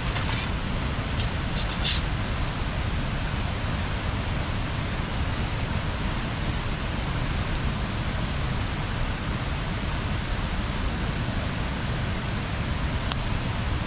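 Bonfire burning: a steady rushing noise with a few sharp crackling pops in the first couple of seconds and one more near the end.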